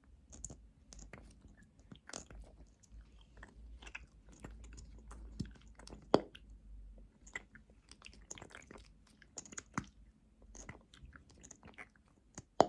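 Mouth sounds: irregular lip smacks and wet clicks, with a sharp, louder pop about six seconds in and another near the end.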